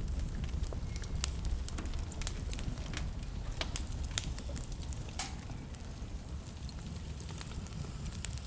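Fire crackling in a fireplace: irregular sharp pops and snaps over a low, steady rumble of the flames, with one louder pop about five seconds in.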